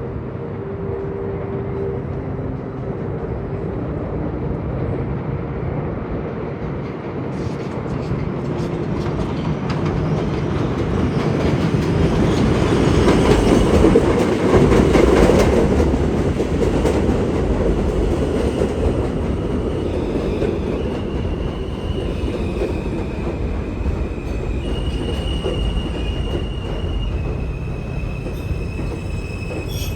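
New York City subway train of Alstom R160A cars pulling into an elevated station: a rumble and clatter of wheels on rail that builds to its loudest about halfway through, then eases as the train slows. In the second half, steady high whining tones come in and shift pitch in steps.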